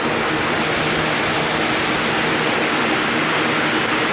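Strong wind blowing over the microphone: a steady rushing noise.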